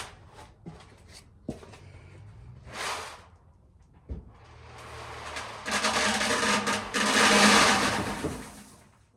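Corn being tipped out of a tub: a few light knocks and scrapes, then a loud rushing rattle that builds from about five seconds in and dies away near the end.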